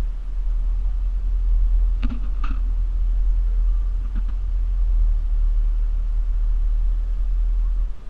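Hurricane wind buffeting the microphone as a loud, steady low rumble, with a few short knocks about two seconds in and again near four seconds.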